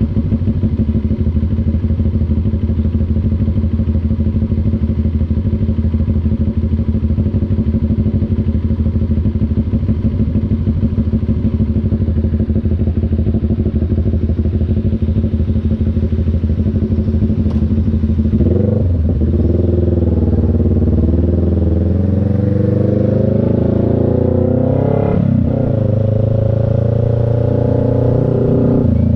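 CF Moto NK400's two-cylinder engine running at low, even revs. About two-thirds of the way in its pitch starts climbing as it accelerates, dropping briefly once as at a gear change, then climbing again.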